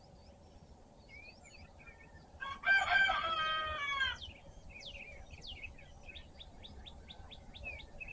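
A rooster crows once, starting about two and a half seconds in and lasting nearly two seconds, the loudest sound, its pitch sagging at the end. Small songbirds chirp and sing around it, with a quick run of repeated chirps near the end.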